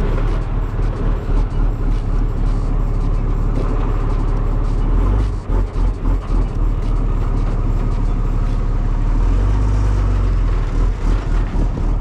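Truck engine running steadily with a heavy low rumble that pulses up and down in level in several stretches.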